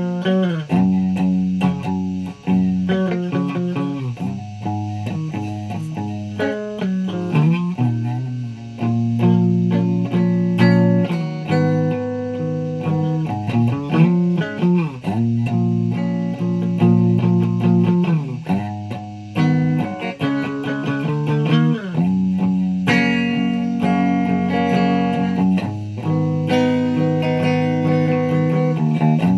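Guitar being played: a continuous run of plucked notes and chords, with notes sliding in pitch here and there.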